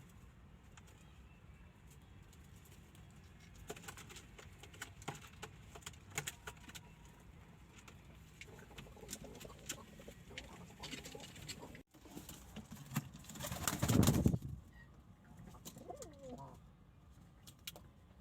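Domestic pigeons cooing, with scattered light clicks and taps. About two-thirds of the way through, a louder noisy rush lasts about a second and is the loudest sound here.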